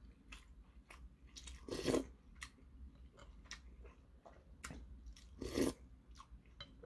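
Close-up eating sounds of a person chewing seafood jjamppong noodles: many small wet mouth clicks, with two louder, short mouth sounds about two seconds in and again about five and a half seconds in.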